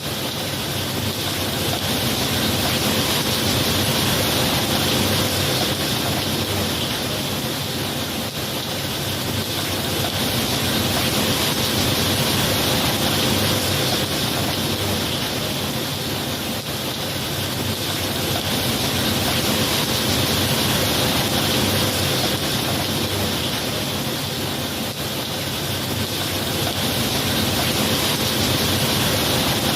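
Steady rain, an even hiss that swells and eases slowly in loudness, with no thunder.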